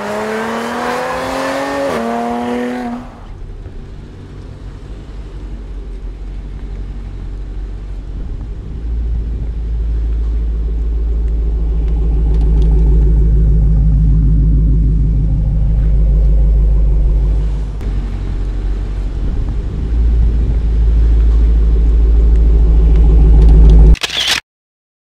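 Prototype Dodge Challenger test mule's V8, believed to be the new supercharged Hellcat engine, with a deep burble. A brief rising rev comes at the start, then a steady low rumble that grows louder as the car nears and cuts off suddenly near the end.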